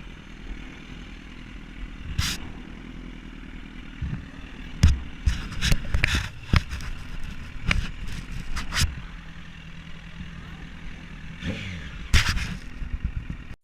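A motorcycle engine idling with a steady low hum, with scattered sharp knocks and clatter over it and a brief falling sweep near the end.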